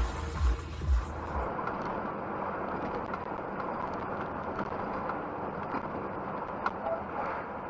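Two heavy low thumps in the first second, then steady vehicle engine and road noise as heard by a dash camera, with a sharp click near the end.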